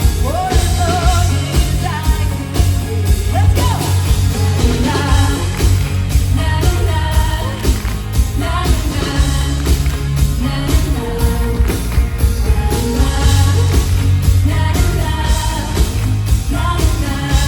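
Rock band playing live with a lead singer over a steady drum beat and heavy bass.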